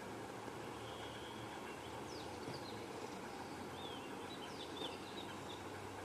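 Small birds chirping: a few short, high chirps about two seconds in and a longer run of them about four to five seconds in, faint over a steady background hum.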